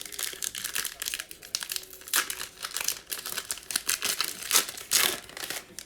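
Crinkling and tearing of a trading card pack's plastic wrapper as it is torn open by hand, an irregular crackle with louder rips about two seconds in and again near the end.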